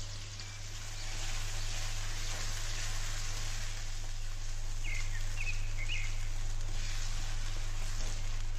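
Tomato, onion and yogurt masala frying and sizzling in a cast-iron karahi as it is stirred, over a steady low hum.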